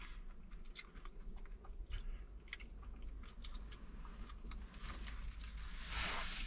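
A person chewing and biting into a stove-toasted cornmeal cake, with soft crunching clicks. A short rush of hiss about six seconds in.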